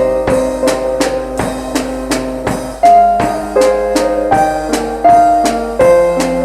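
Instrumental rock jam: a keyboard plays held chords and a moving melody over a steady drum-kit beat of about three hits a second, growing louder about three seconds in.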